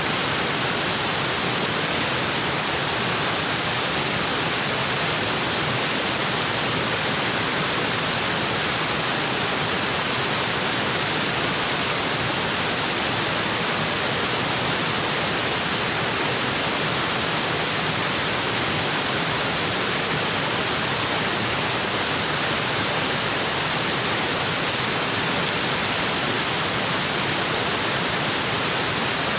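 Waterfall: water pouring onto rocks with a steady, dense rush that does not change.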